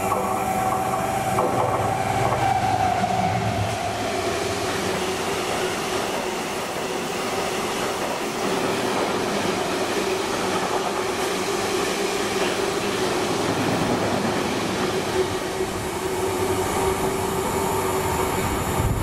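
A freight train running through a station without stopping. The locomotive goes by in the first few seconds with a tone that falls in pitch. A long string of open wagons then rattles past on the rails, with a steady tone running underneath.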